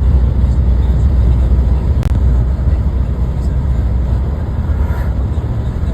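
Steady low rumble of a car driving on the road, with a single sharp click about two seconds in.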